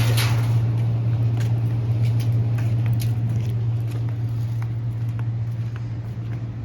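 Steady low machine hum, constant in pitch, with scattered light clicks and taps over it.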